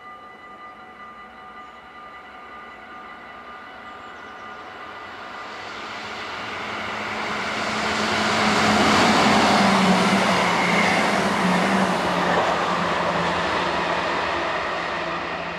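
NS Sprinter electric multiple unit passing at speed: a rushing rumble of wheels on rail that builds from about four seconds in, is loudest around nine to ten seconds, and fades near the end. A steady high ringing tone sounds in the background throughout.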